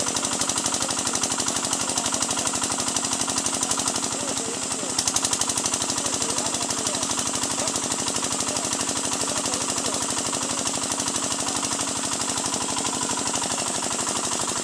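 Bharat engine running steadily, a fast, even pounding of firing strokes. It dips briefly about four seconds in and picks up again.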